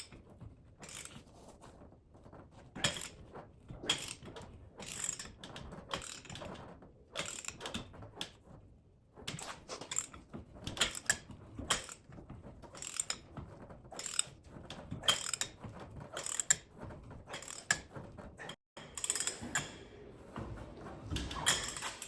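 Hand ratchet wrench being worked in repeated strokes, each stroke a short burst of clicking, about one a second with small pauses.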